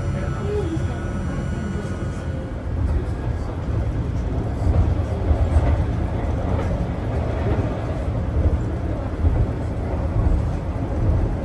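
Tram running along the line, heard from inside the carriage: a steady rumble of wheels on rails that gets a little louder about three seconds in.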